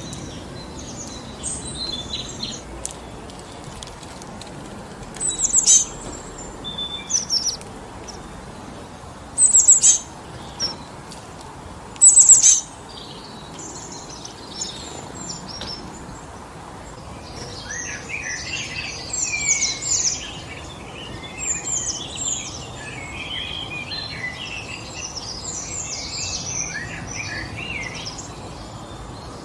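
Steady wind through forest trees with wild birds calling over it: a few loud, sharp calls about 5, 10 and 12 seconds in, then many birds chirping together through the second half.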